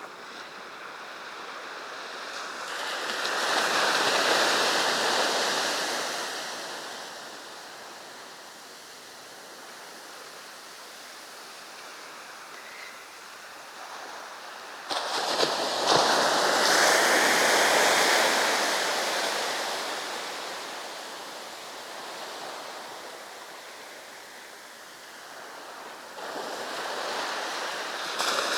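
Sea surf: waves breaking and washing up the beach, the rush of water swelling and fading in long surges, three in all, two of them starting suddenly.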